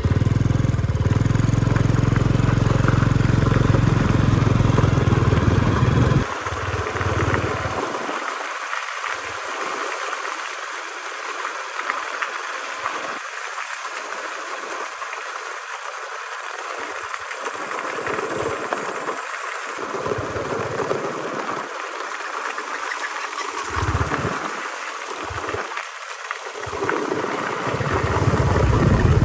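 Motorbike engine running steadily, then after a sudden change about six seconds in, uneven on-and-off low rumbling over a steady hiss.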